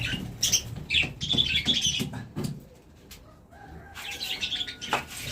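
Small birds chirping in short repeated calls, with wings flapping, mixed with sharp knocks and clicks from hand work on wood. A thin, steady squeak sounds near the end.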